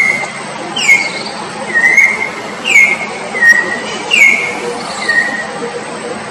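A bird calling over and over in clear whistled notes, alternating a short downward-sliding note with a flatter, level one, about one note every three-quarters of a second.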